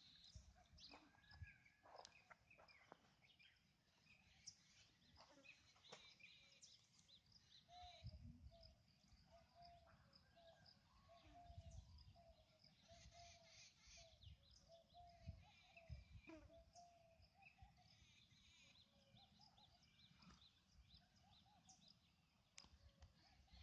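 Near silence: faint open-air ambience with distant birds calling, including a run of short repeated notes in the middle, and low rumbles from the phone being handled.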